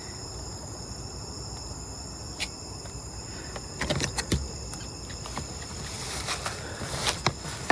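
Steady high-pitched chorus of night insects such as crickets, with scattered rustles and clicks from someone moving through undergrowth, mostly around four seconds in and near the end.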